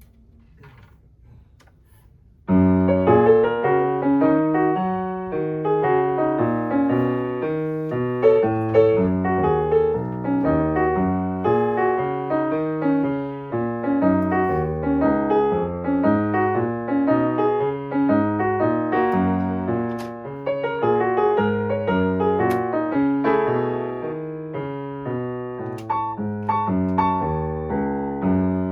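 Piano playing a piece with a bass line and a melody in chords, starting suddenly about two and a half seconds in after faint room tone.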